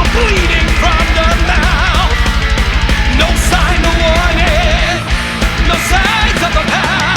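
Heavy metal music: fast double-kick drumming under distorted guitars, with a wavering pitched lead line above. The kick-drum pulse drops out briefly about five seconds in before picking up again.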